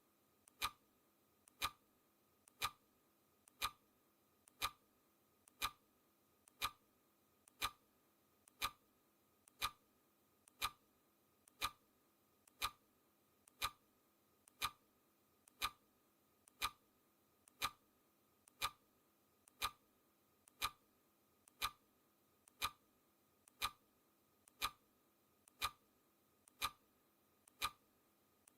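Clock ticking steadily, one sharp tick each second, each with a faint click just before it.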